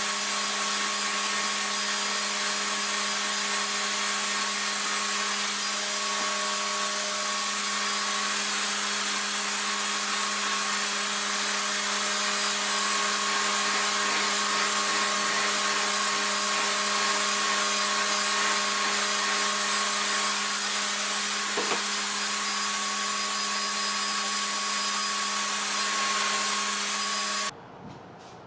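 RevAir reverse hair dryer running steadily: a suction motor's steady hum and rushing air as it pulls the hair into its tube. It cuts off suddenly near the end.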